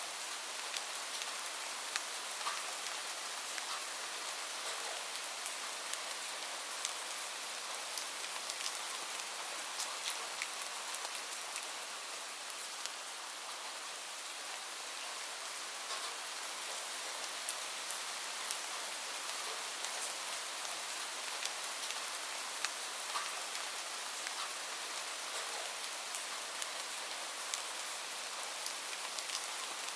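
Steady rain falling on a surface, an even hiss with scattered individual drops ticking sharply throughout.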